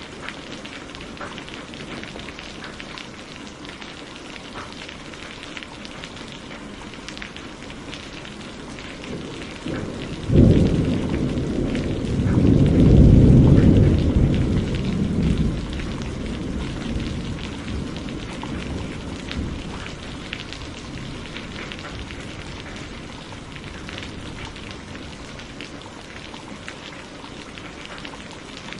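Steady heavy rain falling, with a sudden thunderclap about ten seconds in that rolls into a deep, loud rumble and fades away over several seconds.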